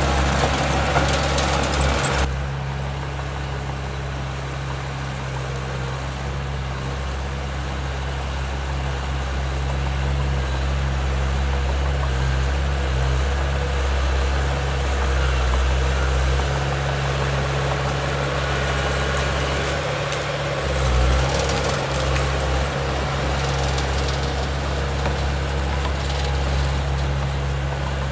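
Heavy diesel earthmoving machinery running steadily at a low, even engine note. It is louder and harsher for the first two seconds, then drops to a quieter idle-like run.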